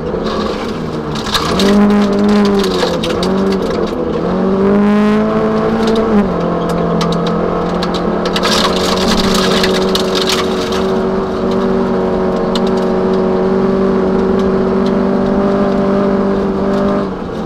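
Toyota Celica 1600's four-cylinder engine heard from inside the cabin at racing speed: the revs rise and fall several times in the first few seconds, then hold steady at high revs, with a short drop near the end. Scattered crackling from the snowy gravel road under the car.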